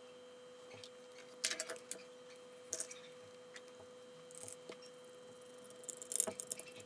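Small hard clicks and rattles in four short bursts as a multimeter is handled and put back together, over a faint steady hum.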